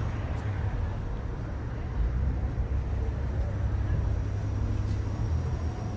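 A low, steady rumble under an even background hiss, a little louder from about two seconds in.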